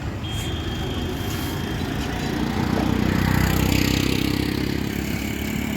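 Motor vehicle engine and road noise, a steady rumble that swells louder for about a second and a half around three seconds in.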